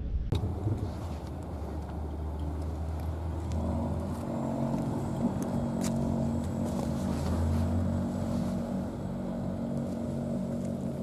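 A motor vehicle's engine running steadily, a low hum that takes on a steadier pitched drone about a third of the way in.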